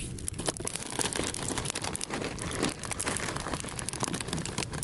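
A plastic snack bag of popcorn being handled and torn open, with dense, irregular crinkling and crackling.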